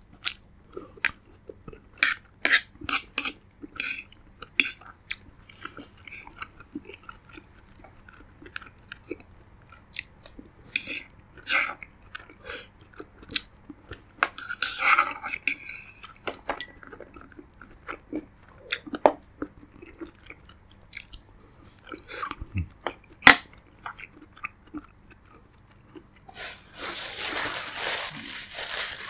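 Close-miked eating: a person chewing and crunching food, a long run of short sharp crunches and bites at an irregular pace. Near the end a few seconds of dense hissing noise rises over the chewing.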